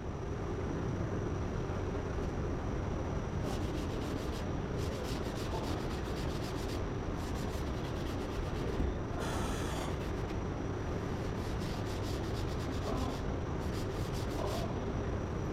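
Sanding body filler on a car's lower quarter panel: a steady, even scrubbing with a faint constant high tone.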